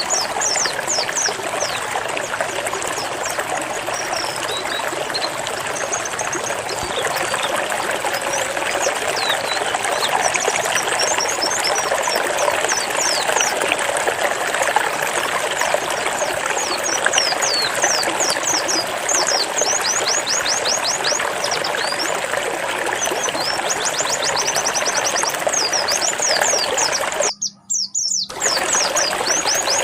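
A pleci (white-eye) singing rapid runs of short, high, falling notes, the fast 'zipper' song, over a steady sound of running water. Near the end everything cuts out for about a second.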